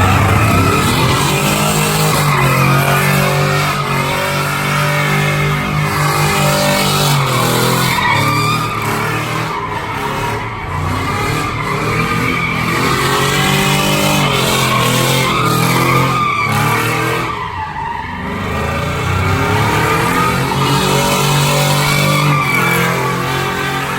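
Truck engine revving hard as its tyres spin and squeal in a burnout. The engine pitch rises and falls, easing off briefly about two-thirds of the way through before building again.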